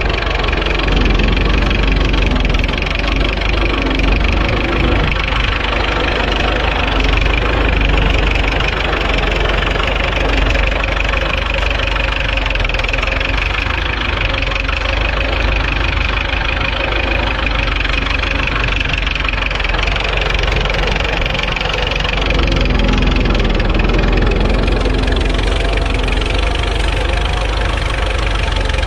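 Tractor engine running steadily while ploughing a field, a constant low rumble.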